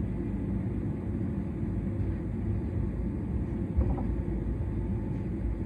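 S-Bahn electric commuter train running along the line: a steady low rumble of wheels and running gear on the track, with a brief knock about four seconds in.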